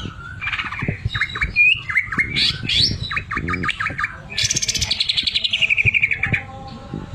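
Cucak ijo (green leafbird) singing: a run of varied chirps and whistled notes, then a fast rattling trill for about two seconds that falls in pitch, the rattle that keepers call 'mesin jahit', the sewing-machine filling in its song.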